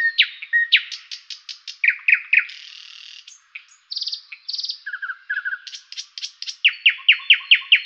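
Songbird singing: fast trills of sharp down-slurred chirps repeated several times a second, with a short buzzy note in the middle.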